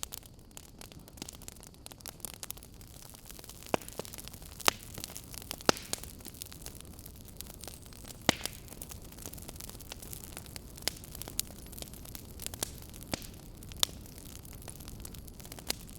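Wood fire crackling in a fireplace: a steady low rush under irregular sharp snaps and pops, a few of them much louder than the rest.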